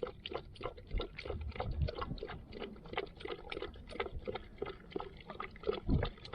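German shorthaired pointer lapping water, a fast, even run of wet laps.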